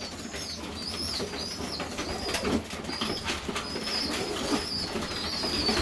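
Young Serbian highflyer pigeon squeaking as it is fed: short, high-pitched begging peeps, about two a second, over a low wind rumble on the microphone.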